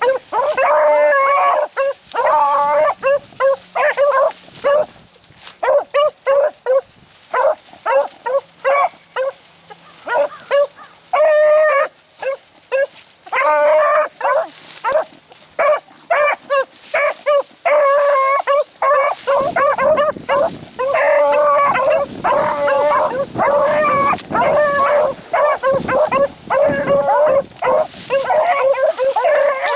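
Beagles baying and howling in a steady run of drawn-out, ringing calls, the sound of rabbit hounds giving tongue on a scent trail.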